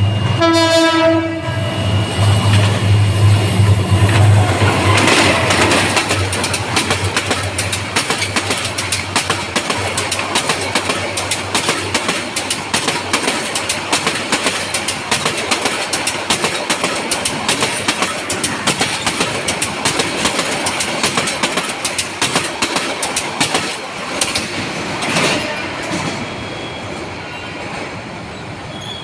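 A diesel passenger train sounds a short horn blast over the low hum of its locomotive as it reaches the crossing. Its coaches then roll past close by with a steady clickety-clack and rattle of wheels for about twenty seconds, fading away near the end.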